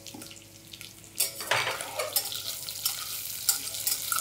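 Sliced onions going into hot oil in a steel pressure cooker about a second in, then a steady sizzle as they fry, with a metal spoon clinking and scraping against the pot as they are stirred.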